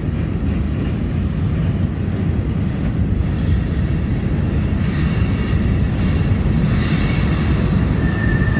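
Freight cars of a long CSX freight train rolling past on the rails, a steady loud rumble and clatter of wheels, with a faint thin high squeal joining in near the end.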